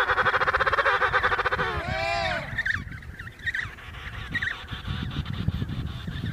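Bird calls: a loud, rapidly pulsed honking call lasting about two seconds, a shorter rising-and-falling call, then small high chirps repeating.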